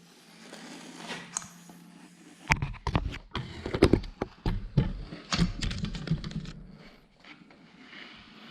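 A rapid, irregular run of clicks and knocks, like objects being handled and set down, busiest from about two and a half seconds in until about seven seconds, with some dull thuds among them.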